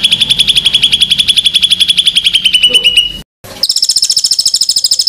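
Songbird giving fast, loud trills of identical notes, about fifteen a second: the first trill drops a little in pitch and cuts off abruptly about three seconds in. After a short gap, a higher, equally rapid trill follows.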